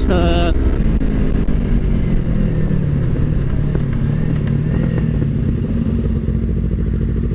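Yamaha R25 parallel-twin engine fitted with an aftermarket exhaust, heard while riding. Its note dips slightly, then climbs and holds steady.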